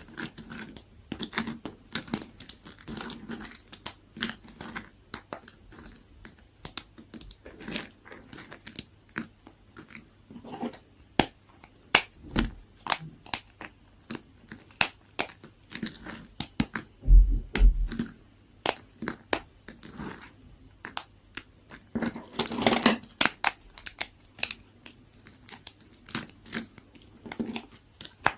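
Super-dry leftover soap being cut and carved: dense, irregular crunching and crackling as the blade breaks through the brittle soap, with a few heavier knocks past the middle.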